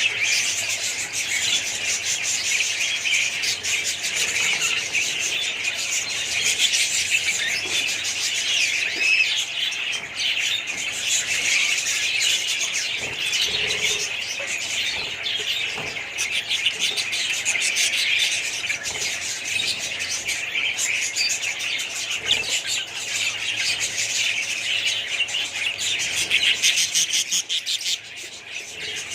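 A flock of small parrots chirping and chattering continuously, many birds calling over one another at once.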